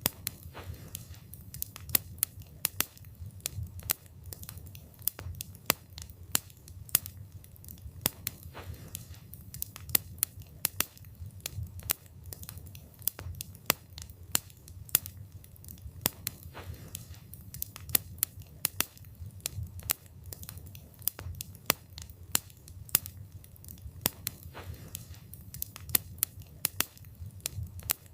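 Wood campfire burning, the wood crackling and popping in frequent, irregular sharp snaps over a low steady rumble.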